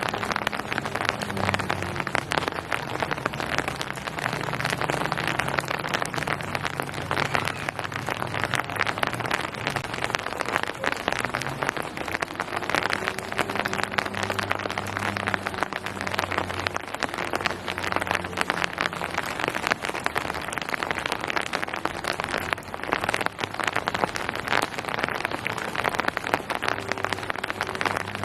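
Steady rain falling, a dense, even patter of drops, with a faint low hum underneath.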